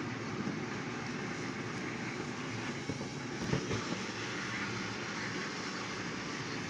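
Battery-powered TrackMaster toy trains running steadily on plastic track: an even whirr of the small motors and wheels, with a few light clicks about three and a half seconds in.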